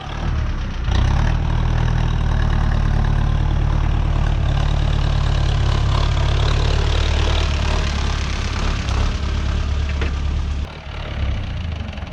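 Renault 651 tractor's diesel engine running steadily, its level dropping near the end.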